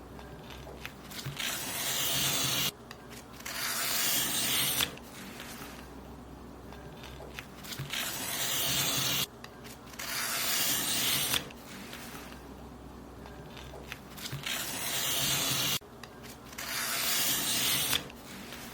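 Paper being cut in long strokes, six in all in three pairs. Each stroke is a dry rasping hiss that builds and then cuts off suddenly.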